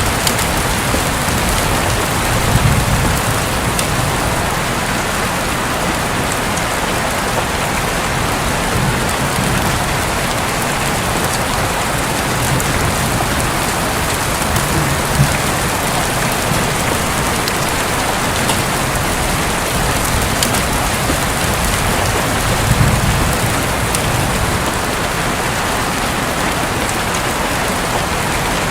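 Steady heavy rain hissing on a roof, with fine drop ticks throughout. A few brief low rumbles of distant thunder swell up about 3 s in, around the middle and near 23 s.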